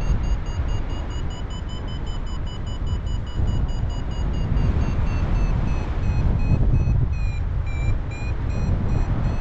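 Paraglider variometer beeping rapidly in a high tone that drifts up and down in pitch, dipping lower near the end and then rising again: the climb signal while working a thermal. Heavy wind rush on the microphone from the airflow.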